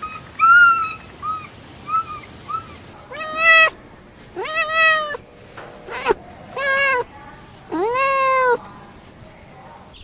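A cat meowing: a few short, high chirping calls in the first seconds, then four longer drawn-out meows that rise and fall in pitch.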